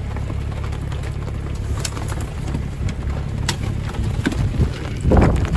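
Sailboat's engine running with a steady low rumble, with a few faint ticks. A louder rushing noise comes in near the end.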